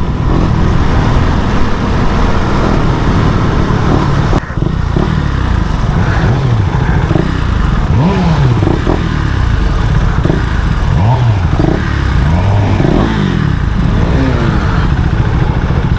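Motorcycle engines running and revving, their pitch rising and falling several times over a heavy, steady low rumble. The sound changes abruptly about four seconds in.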